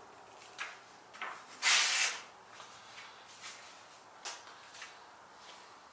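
Light handling noises: a few short clicks and scrapes, with one louder, longer swish about two seconds in, as a freshly sharpened plane blade is tried out.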